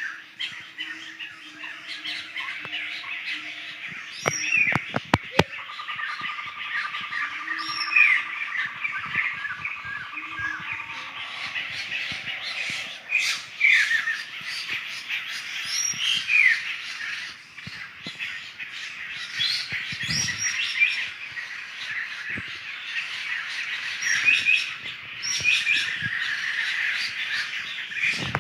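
A flock of laughingthrushes calling in forest: many loud, harsh squawking and chattering calls overlapping one another. A few sharp clicks come about four to five seconds in.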